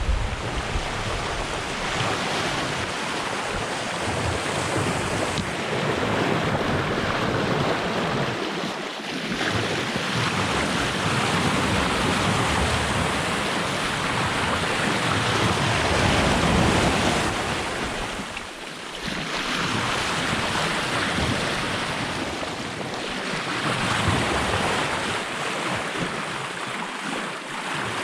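Sea water rushing along the hull of a Hallberg-Rassy 54 sailing yacht under way at about 7 to 8 knots, with wind on the microphone. The rush swells and eases, dropping away briefly about every nine seconds.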